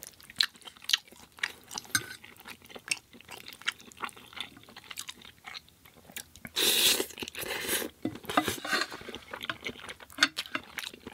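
Close-miked chewing of penne pasta in tomato sauce with vegan sausage: a run of soft mouth clicks and smacks, with one louder burst of noise lasting about a second a little past the middle as a new spoonful goes in.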